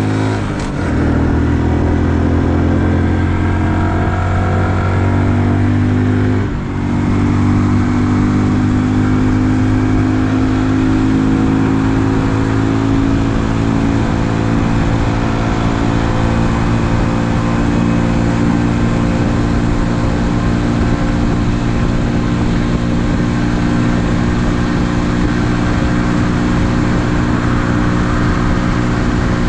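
The 2020 Honda Super Cub's small single-cylinder engine running under way. Its note dips briefly about a second in and again near seven seconds, then holds steady.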